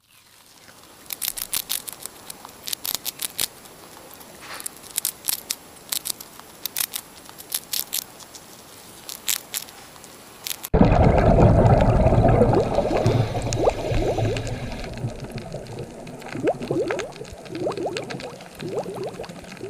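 Guinea pigs moving about in dry hay, a run of quick clicks and rustles. About halfway through it cuts abruptly to underwater sound, a louder bubbling and gurgling with many short rising chirps.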